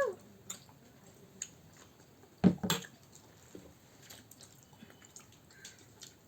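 Close-up eating sounds: a person chewing food, with scattered small wet clicks and smacks and one louder knock about two and a half seconds in.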